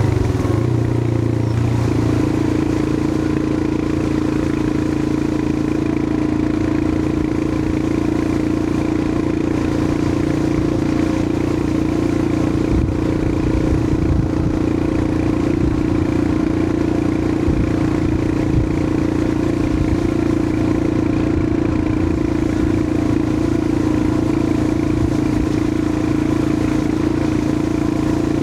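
Royal Enfield Himalayan 411's air-cooled 411 cc single-cylinder engine running under way at a steady pace. Its note shifts in the first two seconds, then holds steady.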